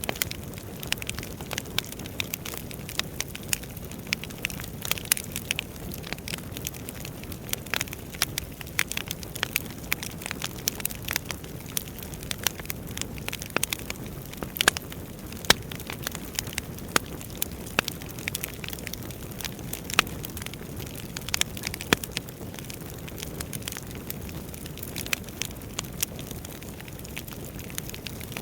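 Wood fire burning in a fireplace: a steady low rush of flames with frequent irregular crackles and sharper pops of burning logs.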